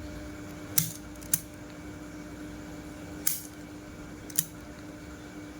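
Four sharp, short clicks of small tools and parts being handled while a cassette Walkman's drive belt is replaced, over a steady hum.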